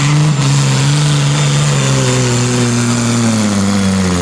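A pulling tractor's engine running hard at high, steady revs, then the revs dropping away over the last second or so.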